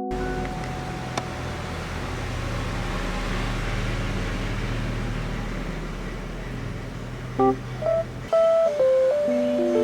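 Steady low rumble of a running vehicle, with a single small click about a second in. Near the end the rumble stops and plucked guitar-like music notes start.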